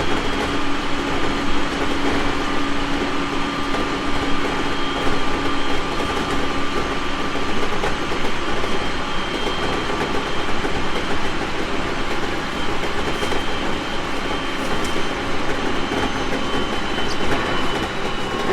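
JR East 701 series 1000 subseries electric train running at speed: a steady rumble of wheels on rail with faint clickety-clack and a thin whine from the running gear. A low hum in the whine fades out about seven seconds in.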